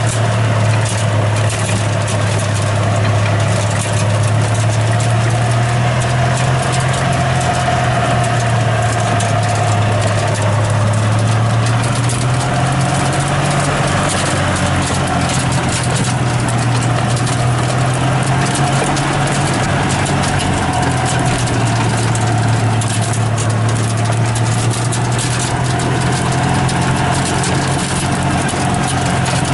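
An engine or motor running steadily, its low hum drifting slowly up and down in pitch over an even hiss.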